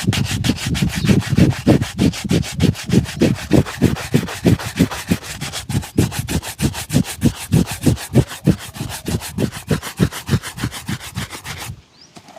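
Fast, even back-and-forth rubbing strokes on a shoe during shining, about three to four strokes a second, stopping suddenly near the end.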